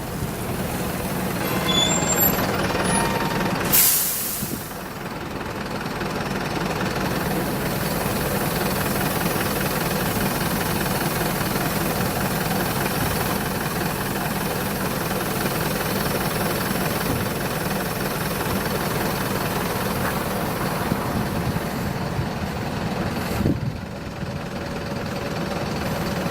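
Optare Solo single-deck bus running, with steady engine and road noise. A few short high squeaks come about two to three seconds in. A sharp, brief air hiss, like an air-brake release, follows about four seconds in.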